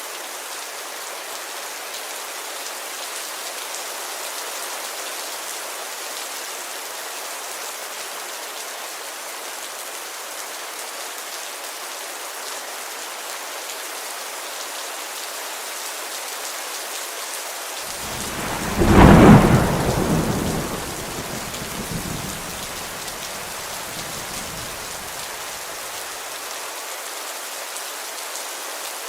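Steady heavy rain falling on a window, with one loud thunderclap about two-thirds of the way through that rumbles away over several seconds.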